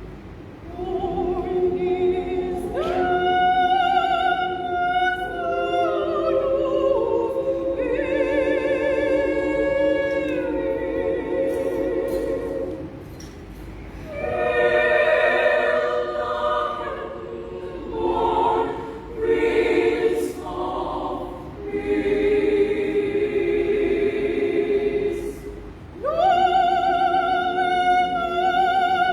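Women's choir singing unaccompanied, sustained phrases in several parts with brief pauses between them.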